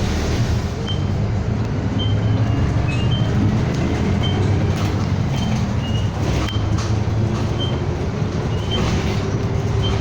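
City bus running, heard from inside the cabin: a steady engine and road rumble, with a short high beep repeating about once a second. Near the end the engine note rises slowly.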